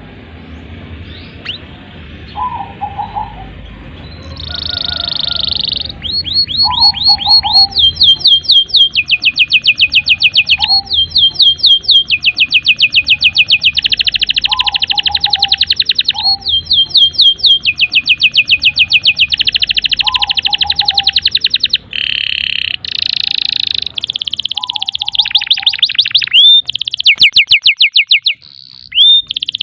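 Domestic canary singing a long, continuous song of rapid repeated trills and rolling phrases, the kind of sustained singing used as a lure to set other canaries singing. A short lower call recurs every few seconds underneath.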